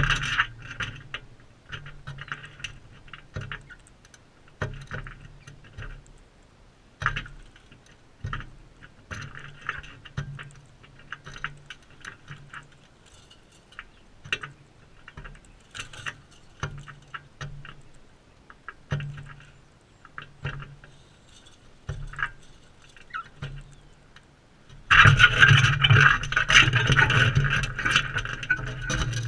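Crimson rosellas feeding close to the microphone: irregular scratching, tapping and scraping of beaks and claws on the feeder. About 25 seconds in it turns into a louder, dense run of scraping and rattling.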